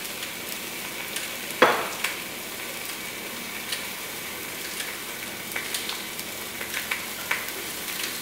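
Sliced onions frying in an enamelled cast iron Dutch oven: a steady sizzle with scattered small clicks, and one short knock about a second and a half in.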